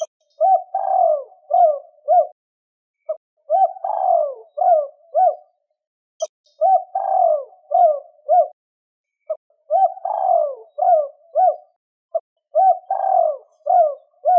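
Spotted dove cooing: its song repeated about five times, each phrase a run of several low coo notes, about one phrase every three seconds, with silence between.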